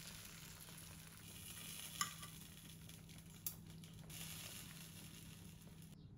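Food frying, sizzling faintly with a steady hiss, with two light clicks about two and three and a half seconds in; the sizzle cuts off suddenly near the end.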